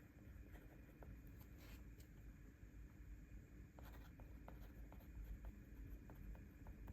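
Faint pen-on-paper writing: short scratching strokes and small ticks of the pen.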